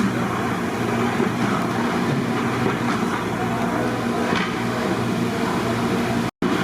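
Chicken frying: a steady sizzle over a low hum, broken by a moment of silence near the end.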